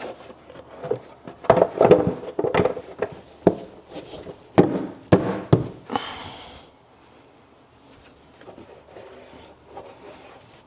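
Oil filler cap being refitted and engine-bay parts handled by hand: a series of sharp clicks and knocks over the first six seconds, then faint handling sounds.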